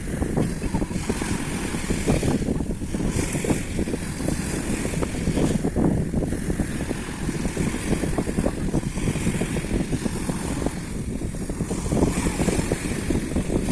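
Wind buffeting the microphone in an irregular low rumble, over a steady rush of sea waves that swells and eases every few seconds.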